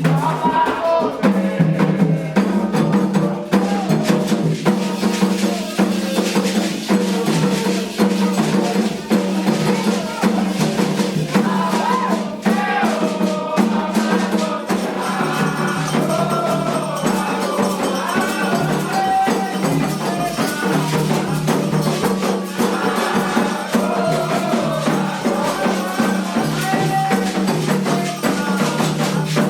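Candomblé ritual music for a xirê: shaken rattles and drums keep a steady rhythm under singing voices.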